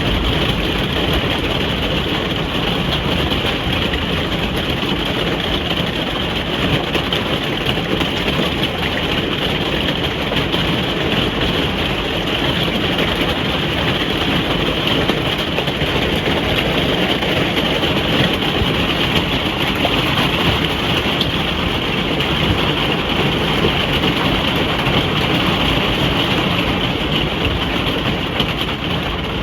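Rain falling steadily on a caravan's roof, heard from inside: a dense, even patter with no pauses.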